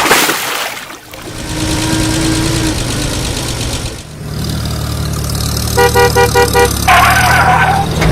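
A vehicle engine rumbling low and steady, then a quick run of about six horn toots a little before the end, followed by one longer honk.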